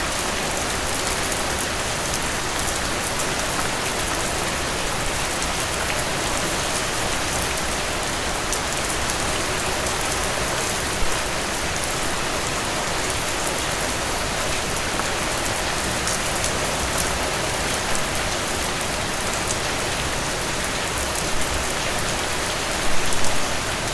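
Steady rain falling on a surface, an even hiss of many drops, with a few louder drop impacts now and then and a short run of them near the end.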